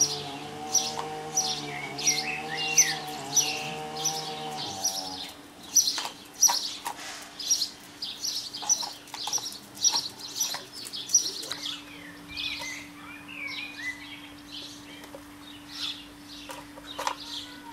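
A bird chirping over and over, short high chirps about three every two seconds, growing more irregular after the first few seconds. A low steady hum runs underneath and stops about five seconds in.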